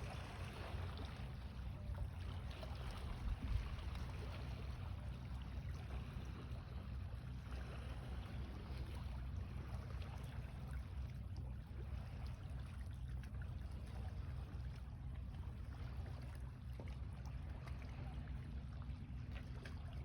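Steady outdoor shoreline ambience at a bay: a low rumble, like wind on the microphone, under a faint even wash of water.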